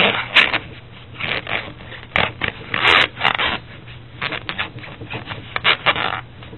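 Closed-cell elastomeric foam pipe insulation rubbing and scraping in irregular strokes as it is rolled and pressed around a copper elbow, over a low steady hum.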